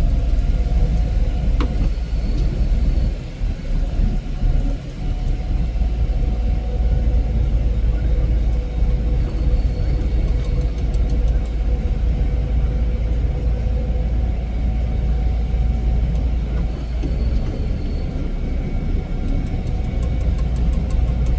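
Heavy snow-removal machine's engine running steadily: a loud low rumble with a steady mechanical whine over it, dipping briefly a few seconds in.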